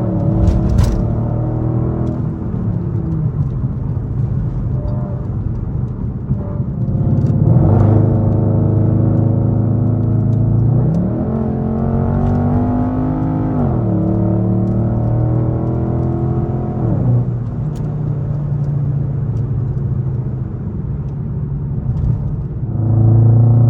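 Straight-piped Infiniti M56's 5.6-litre V8 exhaust under way, a loud, deep drone. The pitch holds steady for stretches, climbs twice and drops back twice as the throttle and gears change.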